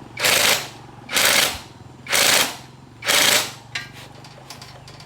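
Four short hissing blasts about a second apart, each lasting about half a second, over a steady low hum, followed by a few light clicks near the end.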